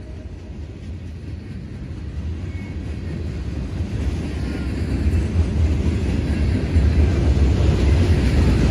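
Freight cars of a Union Pacific manifest train rolling past close by: a steady low rumble of steel wheels on rail that grows steadily louder.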